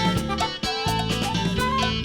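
Live band music: an instrumental passage without vocals, with sustained pitched instruments over regular percussive hits.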